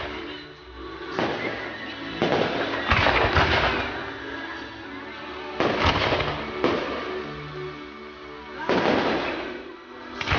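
Display fireworks going off in a series of sudden bangs and volleys, each trailing away, loudest about three seconds in. Music with long held notes plays underneath.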